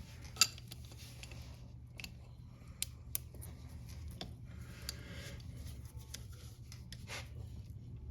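A few sharp metallic clicks and taps, spaced irregularly a second or two apart, from a chain press tool being worked on a motorcycle drive chain's master link, over a steady low hum.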